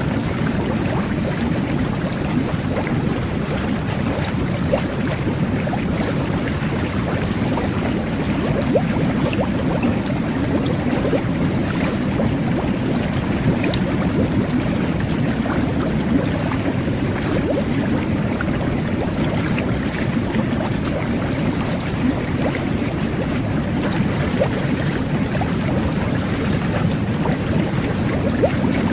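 Jet bath (whirlpool tub) running: steady churning and bubbling of water driven by the jets, with a constant low rumble and fine crackling of bursting bubbles.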